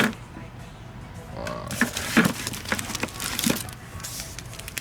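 Irregular knocks and clatter of firework shells being handled and moved among buckets and cases.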